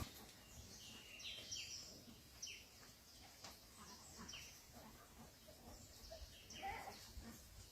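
Faint bird chirps: short, high calls dropping in pitch, scattered every second or so over quiet outdoor background.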